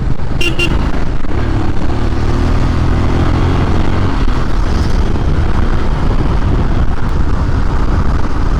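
Royal Enfield Scram 411's single-cylinder engine running while riding, with steady rushing road and wind noise, its pitch rising slightly a second or so in. Two short high beeps sound about half a second in.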